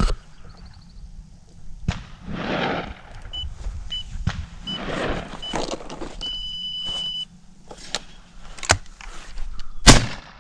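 A series of short electronic beeps and then one longer beep, followed near the end by two shots from a 16-gauge Browning Citori over-under shotgun about a second apart, the second the louder.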